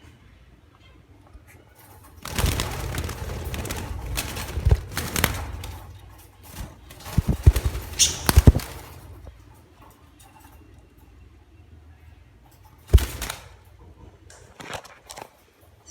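Cockatiels flapping their wings in a cage: a few seconds of loud fluttering followed by a cluster of sharp knocks, and one more knock later on.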